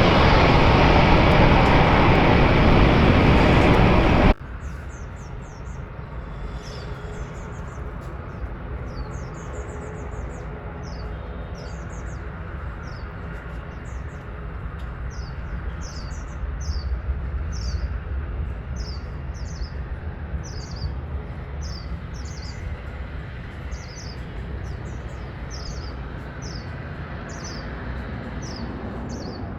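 Loud aircraft engine noise that cuts off suddenly about four seconds in. After it, short high bird chirps repeat about once a second over a low steady rumble.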